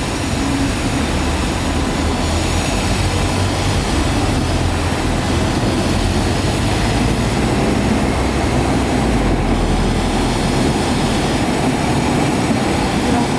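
Train running on the rails, a steady rumble of wheels and rail noise.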